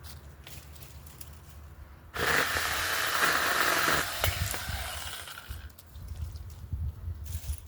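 Mini chainsaw starting suddenly about two seconds in and cutting a branch for about two seconds, then its chain winding down and fading over the next second or two.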